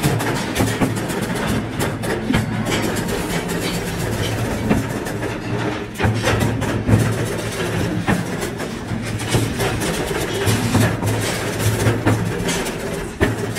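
Workshop machinery running with a steady low hum, with frequent irregular clicks and knocks over it, from work on iron wire for bird cages.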